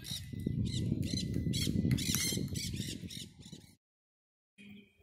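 A flock of birds squawking over and over, with wind rumbling on the microphone. The sound cuts off abruptly about four seconds in.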